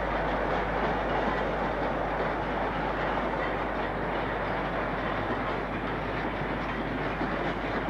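A train running on the line: a steady noise of wheels on rail that barely changes.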